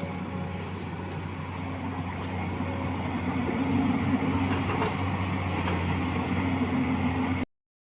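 Excavator's diesel engine running steadily, growing louder and slightly higher in pitch about three seconds in as it takes on load. The sound cuts off abruptly near the end.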